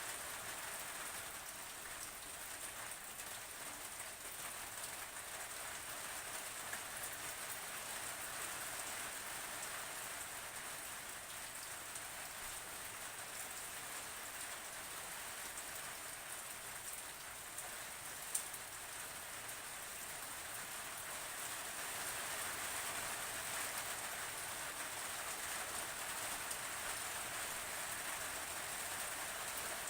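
Steady rain falling: an even hiss of rain with scattered drop ticks, and one sharper drip a little past the middle.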